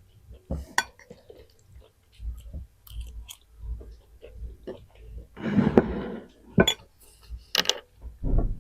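Close-up eating sounds: chewing food, with sharp clinks of cutlery against a plate or bowl now and then.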